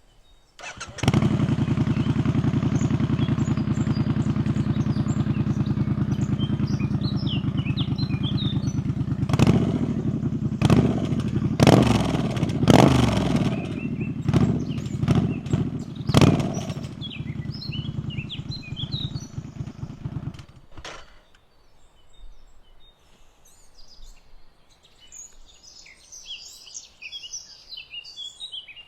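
Triumph Scrambler 900 parallel-twin motorcycle engine starting up about a second in and idling steadily, then a run of sharp throttle blips through the middle before settling back to idle. The engine is switched off about two-thirds of the way through, leaving birds chirping.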